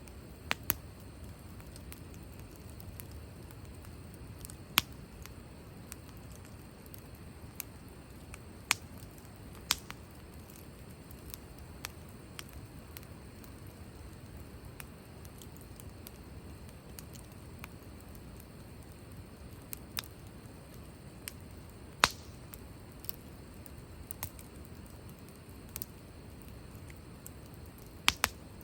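Wood fire crackling, with sharp irregular pops every second or so over a low steady rush; the loudest pop comes about three-quarters of the way through.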